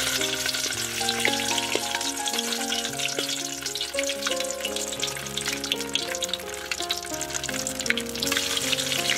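Meatballs sizzling and crackling in hot oil in a wok, with more balls slid in from a spatula near the end.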